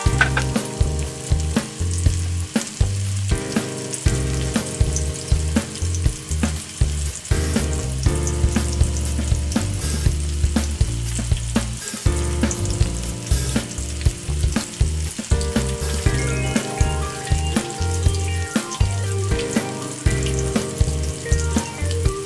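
Coated chicken pieces deep-frying in oil in a wok, a steady crackling sizzle. Background music with a bass line and a steady beat plays over it.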